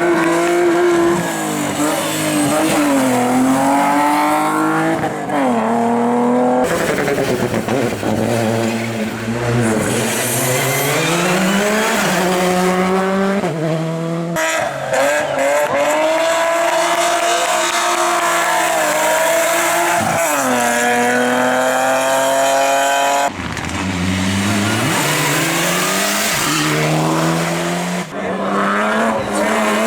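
Hillclimb race cars at full throttle, engine pitch climbing and dropping again and again as they shift up and brake through the bends. The sound changes abruptly three times as the footage cuts from one car to another.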